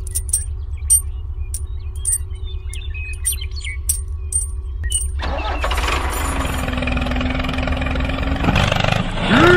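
Tractor engine running with a steady low chug, with light sharp clicks in the first few seconds. About five seconds in a louder, fuller engine sound joins, as if the engine is pulling under load.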